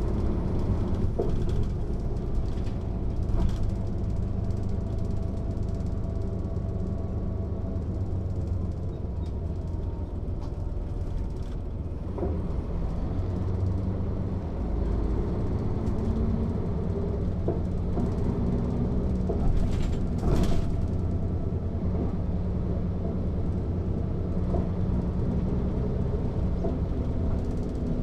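Mercedes-Benz O 407 city bus under way, its diesel engine running with a steady low drone, over a light clatter of rattles and clicks. A short loud hiss-like burst comes about twenty seconds in.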